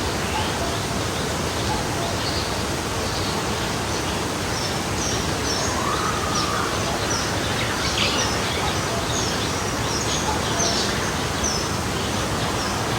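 Steady rushing of a forest stream, with birds chirping over it in short, high notes scattered throughout.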